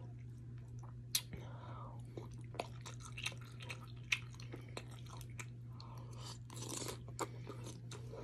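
Close-up wet chewing and mouth smacks of soft macaroni and cheese, with short sharp clicks of a metal fork in the bowl; the loudest clicks come about a second in and about four seconds in. A steady low hum runs underneath.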